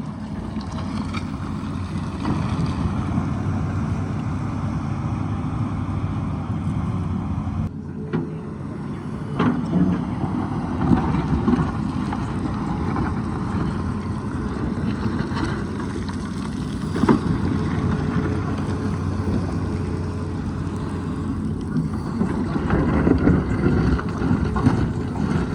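Tata Hitachi excavator's diesel engine running steadily under load, with a few sharp knocks now and then.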